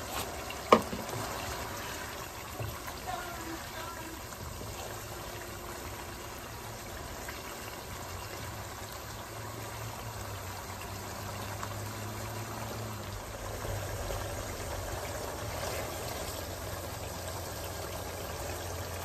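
Liver pieces frying in thick masala gravy in a nonstick pan, sizzling and bubbling steadily at the bhuna (dry-frying) stage. A wooden spatula knocks sharply against the pan about a second in, and a low hum comes in about halfway through.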